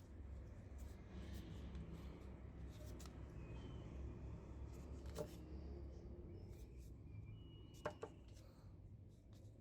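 Quiet hand work: faint scratchy rubbing over a steady low hum, with a light click about five seconds in and two more near the end.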